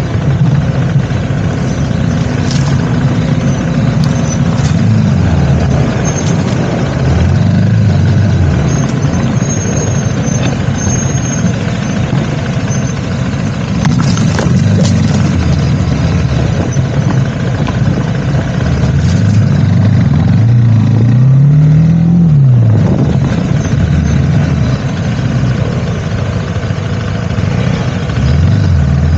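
Engine of a moving road vehicle running under way, its pitch rising and falling with the throttle over a steady rush of wind and road noise. About three quarters through it revs up clearly, then drops off quickly.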